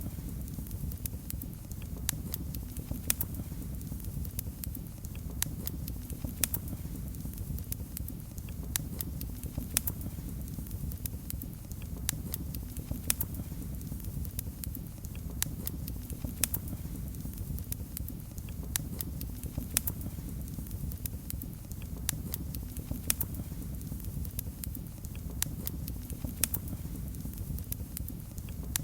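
Fireplace fire crackling, with irregular sharp pops and snaps, a few each second, over a steady low rumble.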